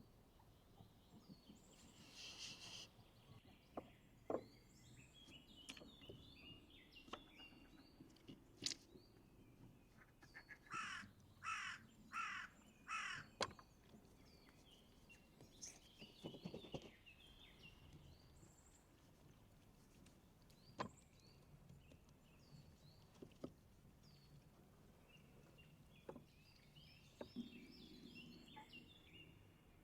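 A bird calls four times in quick succession, around the middle, over faint chirping of small birds and a few scattered clicks.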